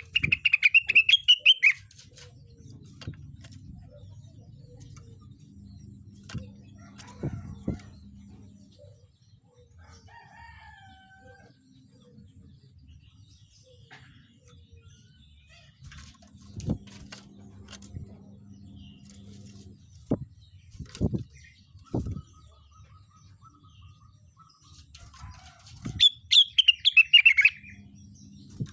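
Rengganis songbird giving a loud, rapid chattering trill in full song, once right at the start and again near the end, with a few faint whistled notes between them. A few sharp knocks sound in the middle.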